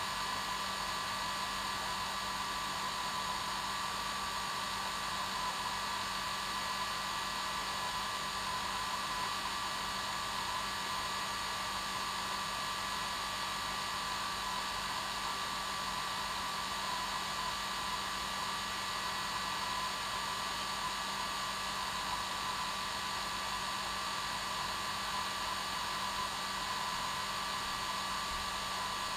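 Hair dryer running steadily: a constant rushing of air with a fixed motor whine.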